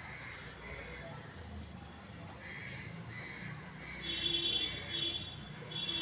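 Birds calling: a run of short raspy chirps, with a louder harsh call about four seconds in and another just before the end.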